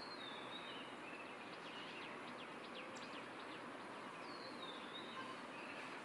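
Faint birdsong over a steady background hiss: a high, downward-sliding whistled call at the start and again about four seconds in, with a quick run of short chirps in between.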